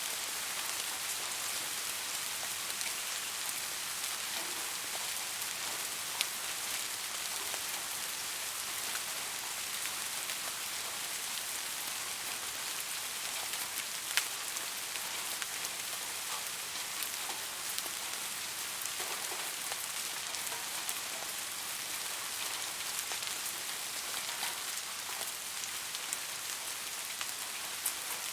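Steady rain falling, with a continuous hiss and scattered sharper drop impacts, a few louder single drops standing out.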